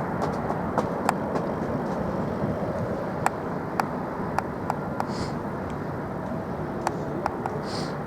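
Steady engine noise, slowly fading, with scattered sharp clicks over it.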